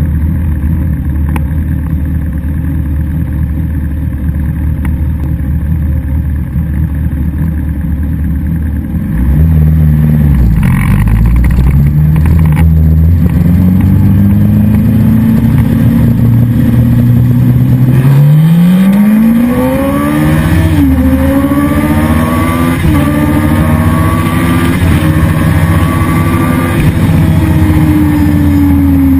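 Kawasaki sportbike engine idling steadily for about nine seconds, then a hard launch: the revs climb and drop back at several upshifts under full throttle, and near the end the engine note falls away steadily as the bike slows after the run.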